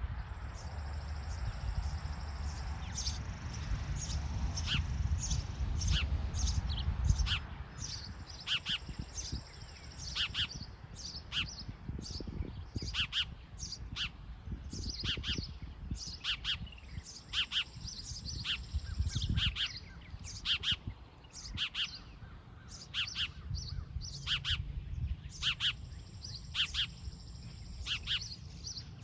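Birds chirping: many short, high chirps at an uneven pace, with a low rumble under them for the first several seconds.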